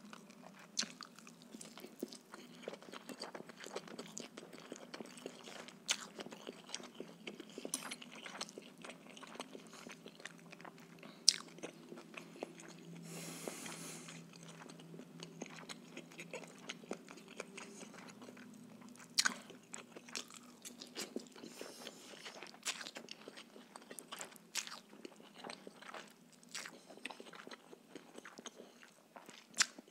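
Close-miked chewing and mouth sounds of a man eating rice noodles with marinated mussels, with many scattered sharp clicks as the fork taps and scrapes the plate.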